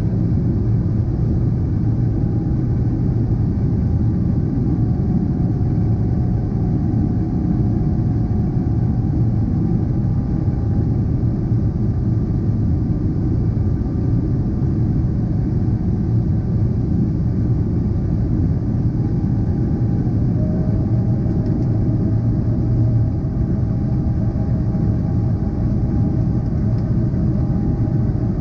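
Boeing 777-300ER's GE90-115B turbofan engines running at high thrust: a steady, even rumble with a few faint steady tones above it.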